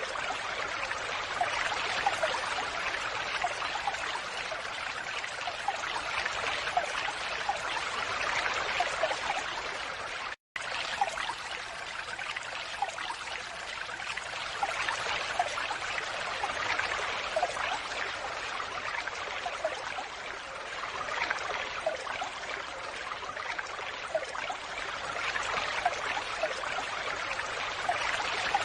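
Falling water splashing steadily, a dense rush with small bright droplet plinks. The sound drops out completely for a split second about a third of the way through, then resumes unchanged.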